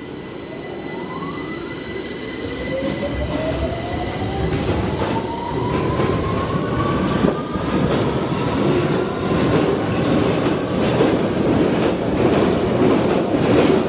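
A London Underground Victoria Line 2009 Stock train pulling out of the platform. Its traction motor whine rises steadily in pitch as it accelerates, over a growing rumble of wheels on the rails.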